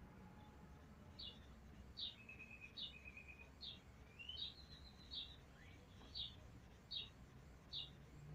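A small bird chirping: short high chirps repeated about once every three quarters of a second, with a brief rapid trill and a rising whistle about halfway through.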